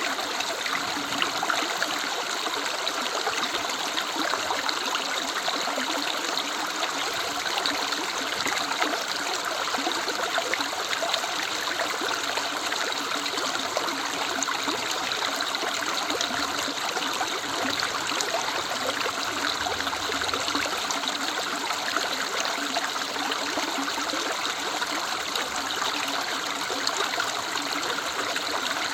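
River water running steadily, a continuous even rush of flowing water.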